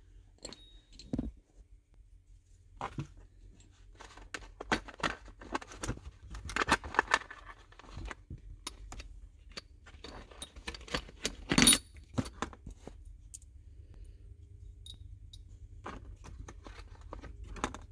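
Loose metal bolts and pieces of a steering wheel puller kit clinking and rattling as they are sorted by hand, with many small clicks and one louder metallic clack about two-thirds of the way through.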